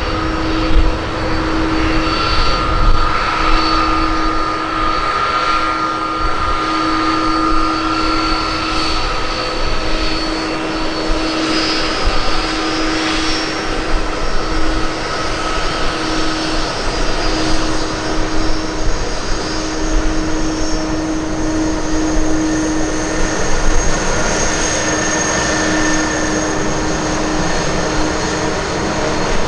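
Jet airliner engines running: a steady whine of several held tones over a constant rushing noise.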